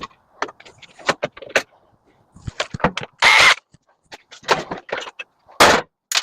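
Metal clanks, clicks and knocks from a scrap microwave oven being taken apart: a string of short sharp hits, with a longer, louder scraping burst about three seconds in and a loud clank near the end.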